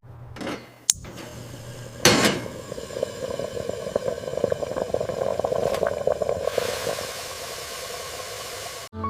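Household sound effects without music: a sharp knock about a second in and a louder one a second later, then several seconds of fine crackling that gives way to a steady hiss near the end.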